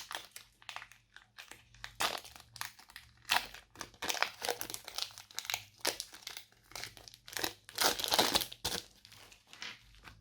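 Slime being squished and mixed by hand, giving an irregular run of sticky clicks and crackles, densest about four and eight seconds in.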